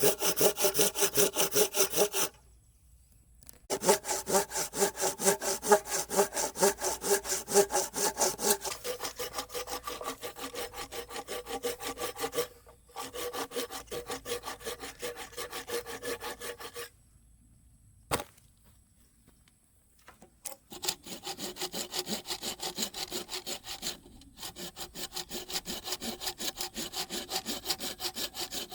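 Hand saw cutting wood in quick, even back-and-forth strokes, several a second, with a ringing tone from the blade. The sawing stops for brief pauses a few times, with a longer pause past the middle.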